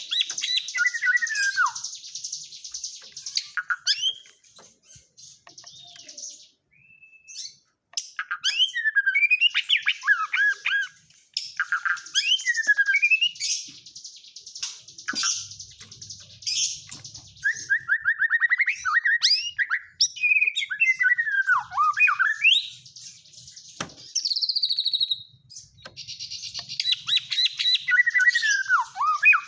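White-rumped shama (murai batu) singing in loud bursts of rapid buzzy chattering trills and quick falling whistled phrases, broken by a few short pauses. The song is filled in with phrases learned from the kapas tembak bird.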